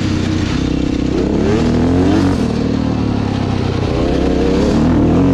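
Dirt bike engine being ridden on a trail, its revs rising and falling with the throttle and gear changes.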